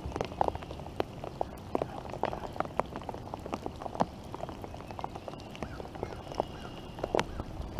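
Rainfall: irregular sharp ticks of drops landing close by, a few each second, over a steady background of rain.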